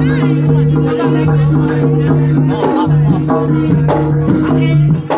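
Loud Javanese jaranan (kuda lumping) ensemble music, with steady held low tones under quicker notes and percussion. Voices are mixed in.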